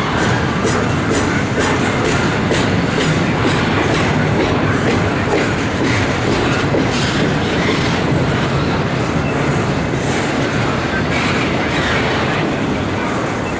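Intermodal freight train rolling past at steady speed: a continuous loud rumble with repeated clicking of wheels over rail joints.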